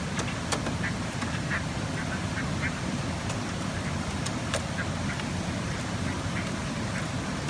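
Chinese hwamei (fighting songbird) giving short, harsh repeated calls, several a second apart, with sharp clicks between them over a steady low background rumble.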